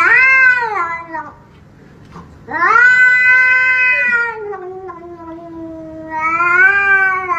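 A cat yowling in long, drawn-out calls, each rising and then falling in pitch, with short pauses between. The longest call lasts about three seconds.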